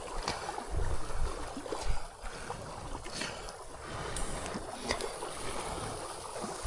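Wind buffeting the microphone in irregular low gusts, with a few faint clicks and knocks.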